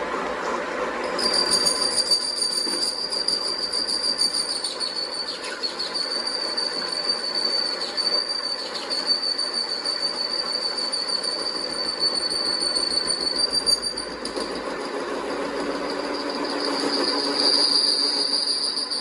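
Steady high-pitched metallic squeal over rough machine noise, as of metal being cut or machined; it starts about a second in, weakens partway through and comes back stronger near the end.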